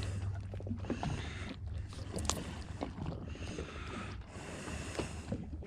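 Background noise aboard a small fishing boat offshore: a steady low hum with wind and water noise, and a few light knocks, the sharpest about two seconds in.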